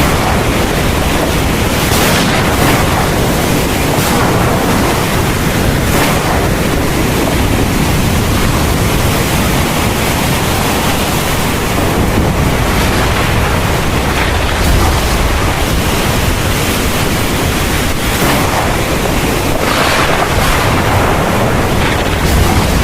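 Heavy rain pouring in a steady downpour, with a deep continuous rumble underneath and brief surges in the rain every few seconds.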